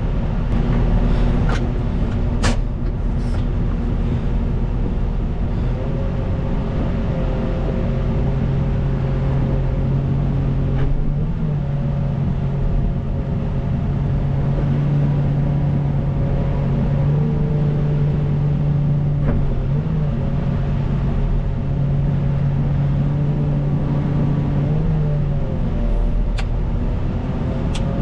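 CAT 926M wheel loader's diesel engine running under work, its pitch rising and falling several times as the revs change. A few sharp clicks come near the start and again near the end.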